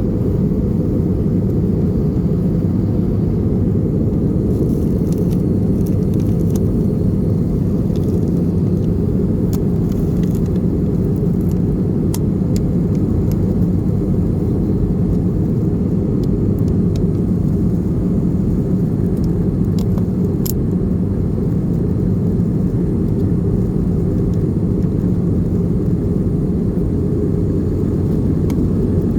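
Steady low roar of engine and airflow noise inside the cabin of an Airbus A320, holding at one level, with a few faint ticks.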